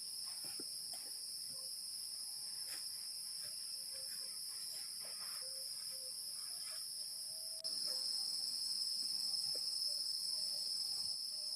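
Forest insects, such as crickets, chirring in a steady high-pitched chorus, a little louder from about two-thirds of the way in, with faint scattered ticks underneath.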